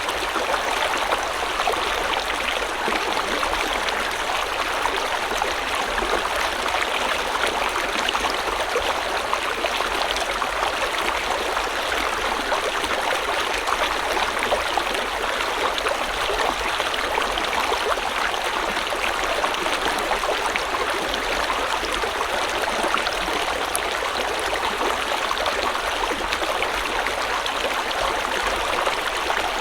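River water flowing and babbling steadily, an even rushing with fine splashy detail and no breaks.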